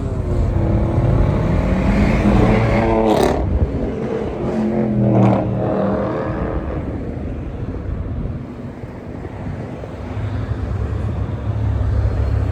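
Car engines running and revving: one climbs in pitch over the first few seconds as it accelerates. There are two short sharp bursts about three and five seconds in, then it eases to a lower rumble that builds again near the end.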